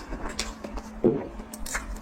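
Close-miked eating sounds: irregular chewing with wet clicks and crackles, and a louder low thud about a second in.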